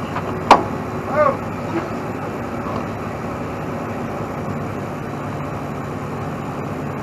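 A heavy truck's diesel engine running steadily, with a sharp metallic clank about half a second in and a short squeak about a second in.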